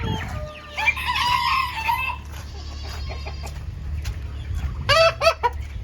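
Chickens: a rooster crows about a second in, and a few short, loud clucks follow near the end.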